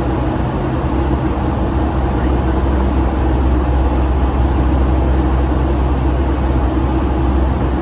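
Steady cabin drone of a Boeing 757-200 airliner with its jet engines running, heavy in low rumble and swelling slightly a few seconds in.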